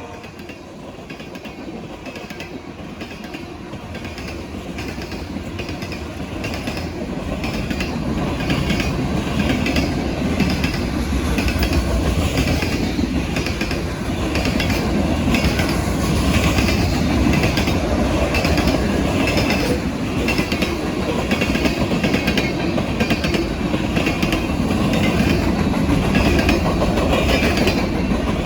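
Norfolk Southern freight train approaching and rolling past, growing louder over the first ten seconds, then holding steady. Diesel rumble with a regular clickety-clack of wheels over the rail joints.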